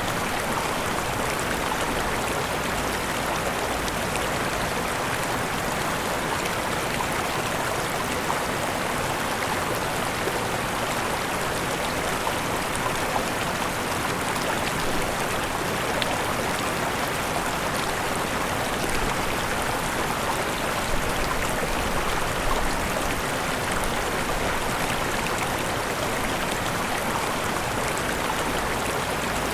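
A waterfall's water pouring steadily: an even, unbroken noise of falling and splashing water that holds the same level throughout.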